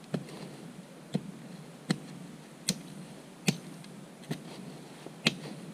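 Sharp, short knocks repeating steadily, about one every 0.8 seconds, seven in all, like blows struck one after another.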